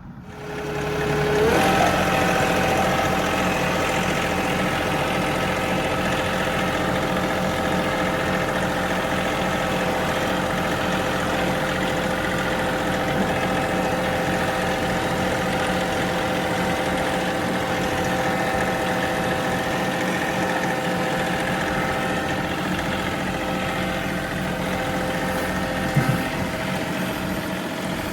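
John Deere 3038E compact tractor's three-cylinder diesel engine revving up about a second in, then running steadily at raised throttle.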